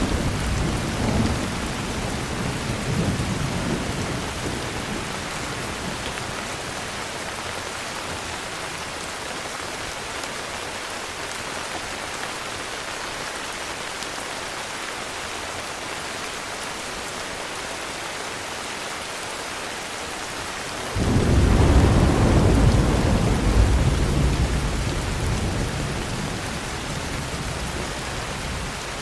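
Steady heavy rain with thunder. A rumble fades out over the first few seconds, then about three-quarters of the way through a loud thunderclap breaks in suddenly and rolls on, slowly dying away.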